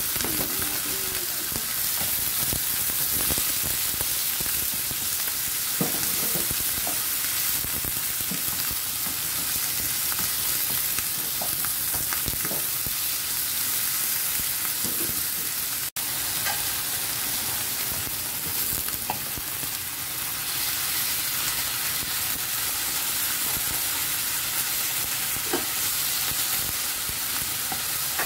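Sliced pork, onion and tomato sizzling in a hot non-stick frying pan while a wooden spatula stirs and scrapes them, with a steady frying hiss and scattered soft scrapes. The sound cuts out for an instant about halfway through.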